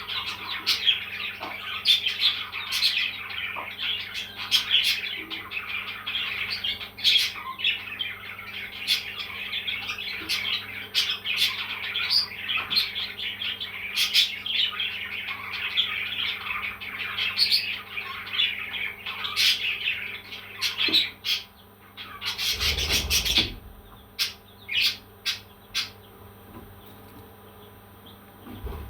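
Parrots chirping and chattering in dense, overlapping calls with sharp peaks. About 22 seconds in there is a loud rustling noise lasting about a second, followed by a few separate chirps as the calling thins out.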